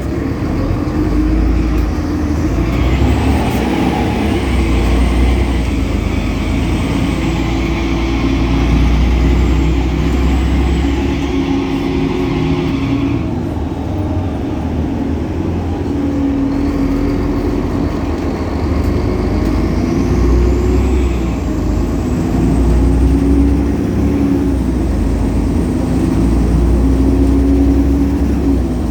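Solaris Urbino 18 bus's DAF Paccar PR265 diesel engine with its ZF Ecolife automatic gearbox pulling away under load, the engine note stepping through gear changes. A high whine rises and falls over it, easing off about halfway and returning as the bus accelerates again.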